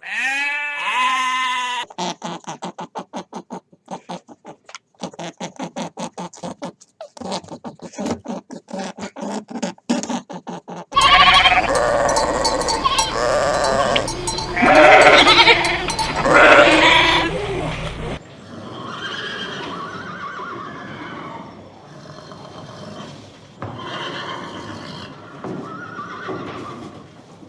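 Farm animals calling across several short clips in a row: a drawn-out pitched call at the start, then rapid short calls repeated many times a second, then a louder, noisier stretch with calls over it, ending in quieter mixed calls.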